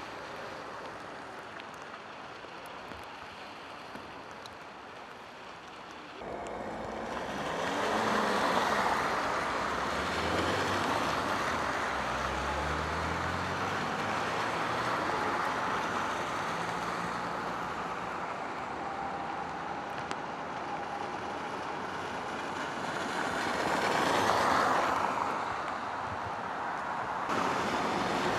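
Road traffic on wet streets: vehicles passing with the hiss of tyres on the wet road, and one engine rising in pitch as it accelerates about ten seconds in. The sound jumps abruptly louder about six seconds in and changes again near the end.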